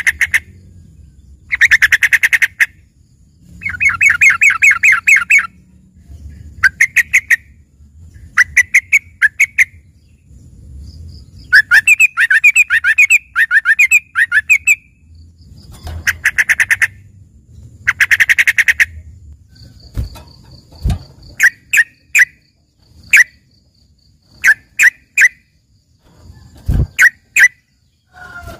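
Yellow-vented bulbul (trucukan) singing a trained 'isian' song in the style of a greater green leafbird (cucak ijo): loud, rapid trilled phrases of about a second each, repeated with short pauses. In the last third it switches to short, sharp single chirps.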